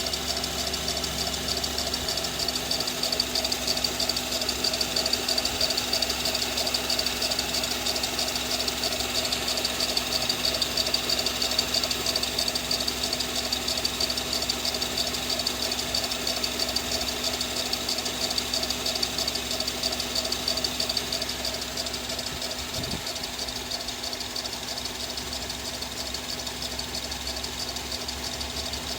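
Honda Elysion's K24A 2.4-litre four-cylinder engine running with an abnormal noise from the accessory belt area: a steady high-pitched whine over a fast mechanical chatter, a little quieter after about twenty seconds. The fan belt, water pump, power steering pump and alternator there had been replaced only 4,000 km earlier.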